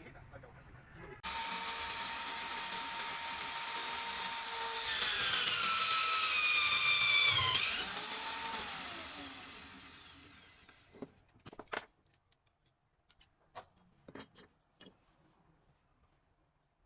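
Electric power tool switched on, running at a high whine that drops in pitch as it bites into the work, then spinning down after release. A few small clicks and knocks of handling follow.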